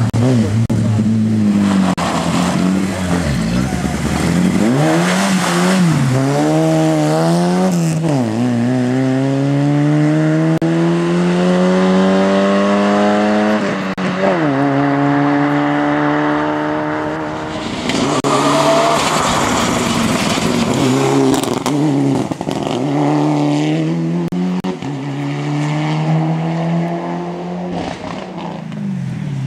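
Rally car engines under hard acceleration, each revving up steadily through a gear and dropping sharply at the shift, over several runs.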